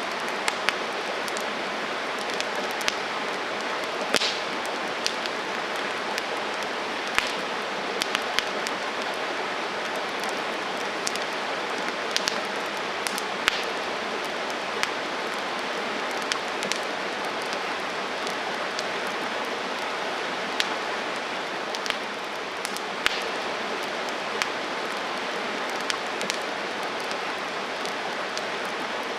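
Wood campfire burning: a steady hiss with sharp, irregular crackles and pops, roughly one a second.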